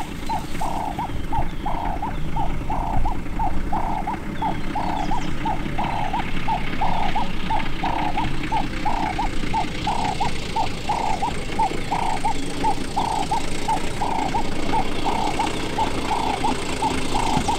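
A bird calling a steady, unbroken series of short, mid-pitched notes, about three a second.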